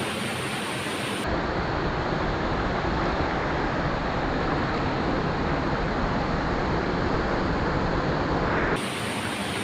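Steady rushing of a waterfall or stream. About a second in it turns into a deeper, fuller rush, and it switches back near the end.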